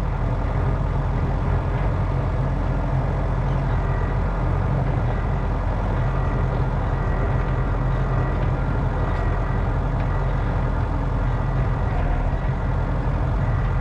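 An engine running steadily at an even speed, with no clear breaks or changes.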